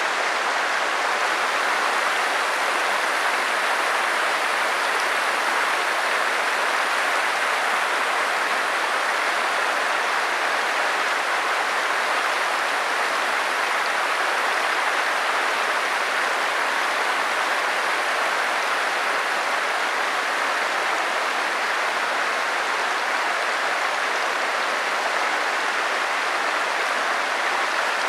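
Stream water rushing steadily over rocks, an even noise that does not change.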